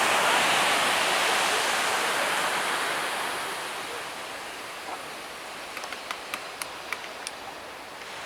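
Sea surf washing onto the beach: a loud hiss of breaking water that fades away over a few seconds, followed by a quieter wash with a few faint clicks.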